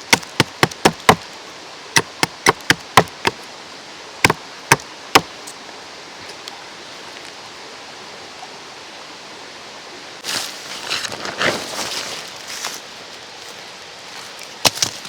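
Quick runs of sharp knocks, about three to four a second, through the first five seconds, over the steady rush of a mountain stream. Rustling and scraping come in around ten seconds in, and two more knocks near the end.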